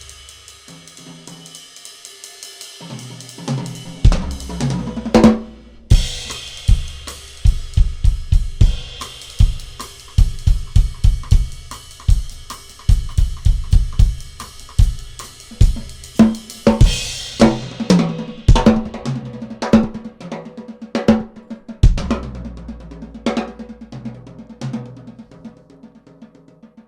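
Drum kit solo: rapid bass drum and snare passages with hi-hat and cymbal crashes. It starts softly and builds up about four seconds in, then thins to sparser hits over a low sustained tone near the end.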